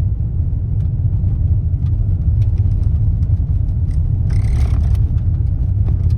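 Steady low rumble inside a car driving on a rough gravel road, from the tyres and suspension working over the loose surface. About four seconds in comes a brief hiss lasting under a second.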